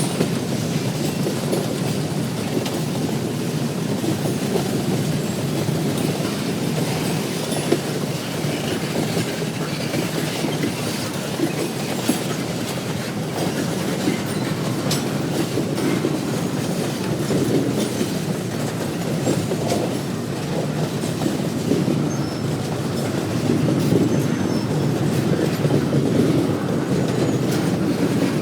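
Railroad cars of a passing train rolling along the track, with a steady rumble and the wheels clacking now and then over the rail joints.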